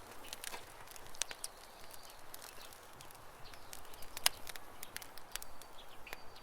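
Campfire wood crackling, with irregular sharp pops and snaps and one louder pop a little past four seconds in.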